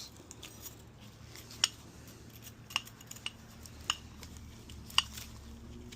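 Light metallic clicks, five of them spread a second or so apart, as a piston ring is handled and positioned on a piston, over a faint steady hum.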